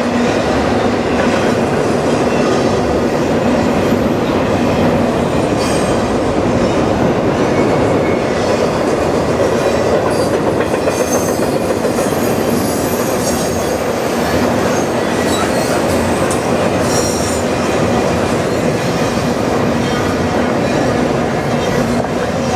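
Double-stack intermodal freight cars of a Canadian Pacific train rolling across a steel truss bridge: a steady, loud rumble of wheels on rail with clicking from the rail joints. A few brief high wheel squeals come midway and later on.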